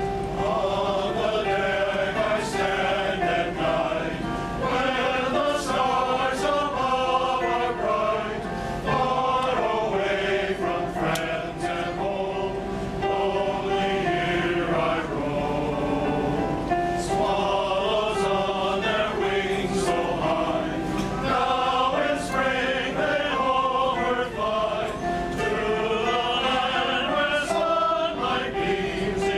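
Male choir singing several parts in harmony.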